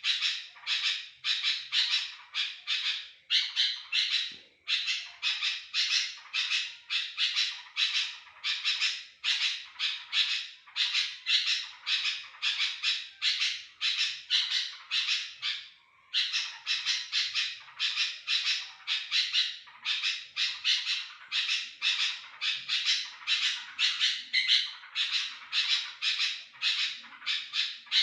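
Sooty-headed bulbul calling non-stop in a rapid run of short, harsh calls, about two or three a second, with a brief break about sixteen seconds in. It is the persistent calling used as a lure for other bulbuls.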